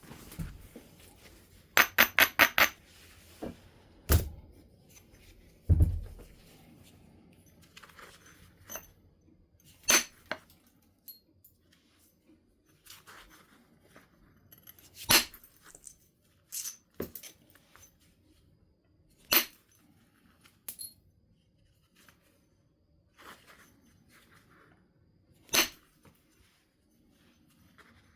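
Stone being knapped, with sharp clinking strikes as flakes are driven off the nodule. There is a quick run of about five taps early on, single strikes every few seconds after that, and one duller, lower knock about six seconds in.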